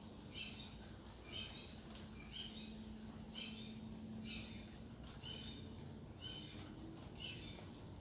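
A short, high animal call repeated about once a second, over a faint steady low hum.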